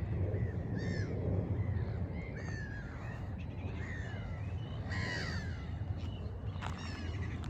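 A flock of birds calling, many short falling calls overlapping one another, with a steady low rumble beneath.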